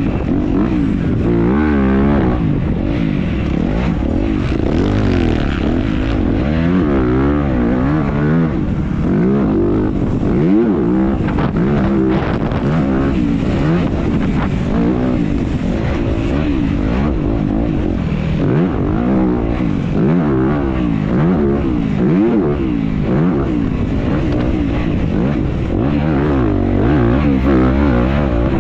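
Dirt bike engine revving up and down over and over as the rider races a motocross track, its pitch climbing and dropping every second or two, heard from the rider's onboard GoPro with wind and track noise under it.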